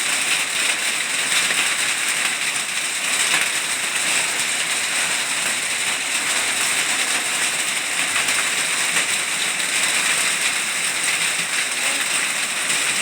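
Heavy rain and large hailstones pelting down in a thunderstorm: a dense, steady hiss peppered with countless small hard impacts.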